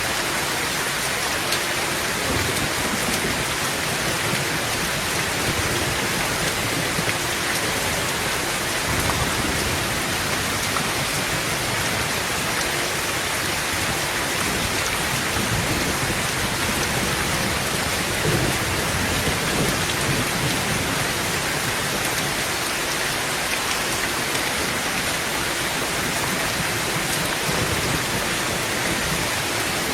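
Heavy rain drumming steadily on a tin tent roof, with low thunder rumbling now and then underneath.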